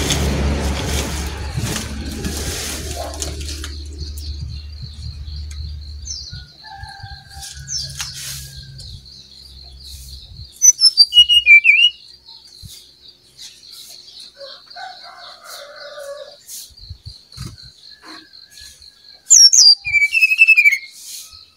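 Brown-chested jungle flycatcher singing in two loud bursts of quick, clear notes, about ten seconds in and again near the end, with fainter calls between. A steady high trill runs behind the song, and the low rumble of a passing vehicle fades out over the first few seconds.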